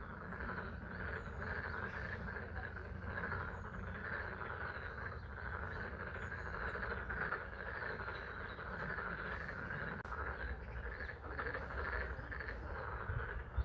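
A dense chorus of frogs calling without pause over steady spring rain falling on a pond, with a low steady rumble underneath.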